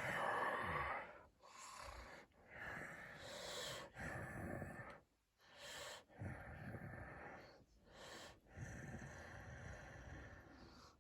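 A person making pretend snoring and heavy breathing sounds for puppets falling asleep: a run of slow, noisy breaths, about one every second and a half.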